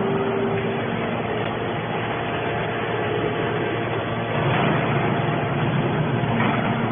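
Hydraulic baler running steadily, its motor and pump giving a continuous machine noise with a faint hum.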